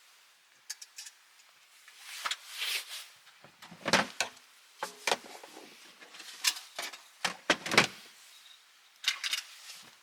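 Irregular wooden knocks, clatters and sharp crackles of firewood being handled and laid on a campfire, with a few heavier knocks.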